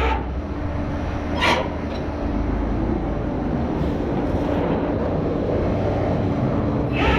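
Tow truck running while a car is loaded onto it: a steady mechanical hum, a short whine about a second and a half in, and a louder, steady whine of the truck's loading gear starting near the end.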